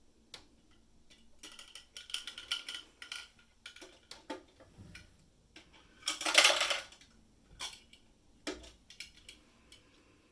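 Small plastic toy pieces clicking and clattering as they are handled, with a louder, longer clatter about six seconds in.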